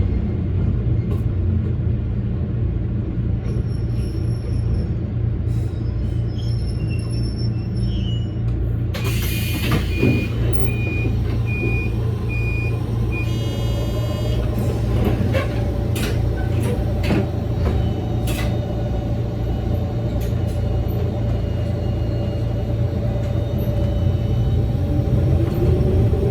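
Electric commuter train running along the line, with a steady low rumble of wheels and motors. About nine seconds in there is a short hiss, then a quick run of beeps for a few seconds. A steady motor whine follows and rises in pitch near the end as the train picks up speed.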